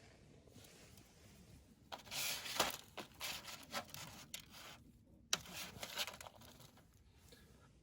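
Rustling, rubbing handling noises in a string of short bursts, starting about two seconds in.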